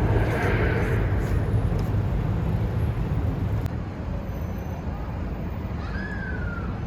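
Steady low rumble of road traffic, with a short falling squeal about six seconds in.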